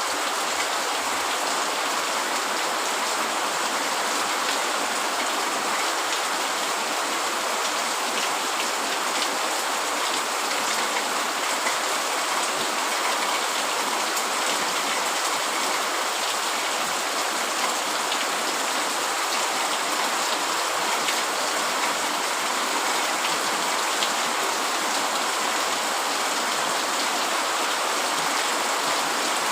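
Steady heavy rain falling on a tent or shelter, a dense, even hiss flecked with many small drop ticks.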